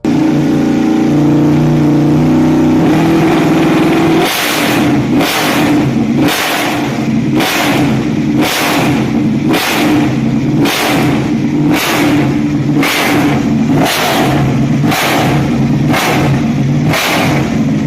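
High-powered motorcycle engine running at a steady, even note, then revved in sharp throttle blips about once a second from about four seconds in.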